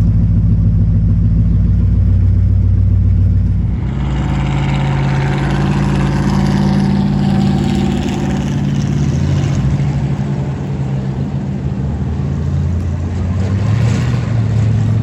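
Dirt-track race car engine running steadily, then about four seconds in it changes to a louder, rougher engine sound with a broad hiss over it.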